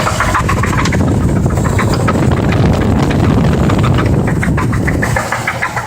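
Chevrolet Trailblazer 4.2-litre straight-six engine running with a rod knock. It grows louder and deeper through the middle, then eases off, with a rapid, even knocking clearest near the end. The knock comes from a spun number-three connecting-rod bearing after long oil-change intervals.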